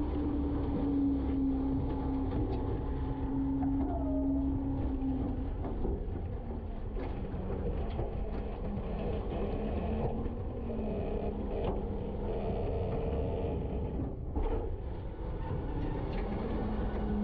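Garbage truck running: a steady engine drone with a held hum that steps down in pitch about five seconds in, and a few light knocks.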